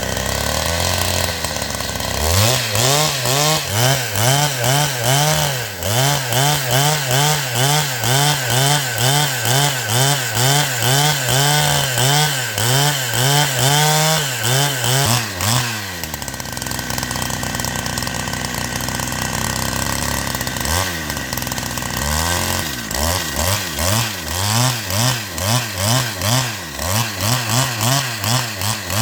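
Chainsaw running at high revs and cutting wood, its engine pitch dipping and recovering about twice a second, with a steadier stretch in the middle.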